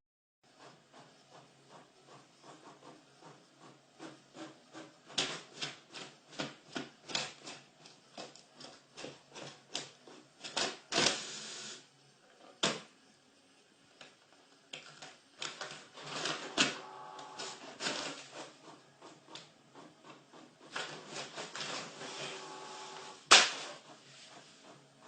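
Printer at work: runs of clicks and knocks at two or three a second, with a steady motor whir in a couple of stretches and one sharp knock near the end.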